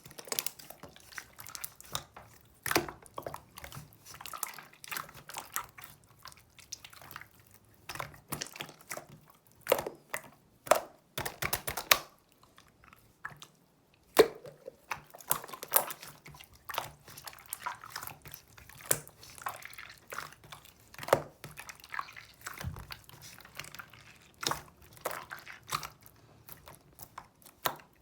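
Clear jelly slime being squeezed and pressed by hand, giving irregular wet clicks, pops and squishes.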